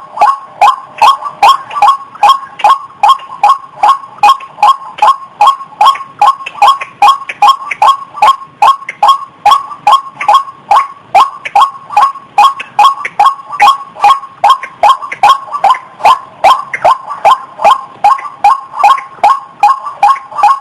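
Female rail of the kind called ruak-ruak or ayam-ayaman calling in a fast, steady series of short notes, about three a second, a call the uploader gives as that of a female in breeding condition.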